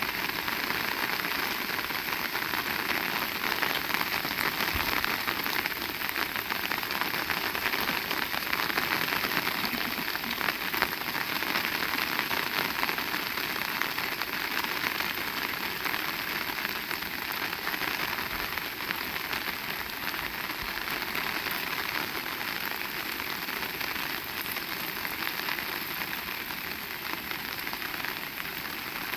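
Heavy rain falling steadily, a dense, even hiss of drops hitting surfaces, with a few faint low thumps.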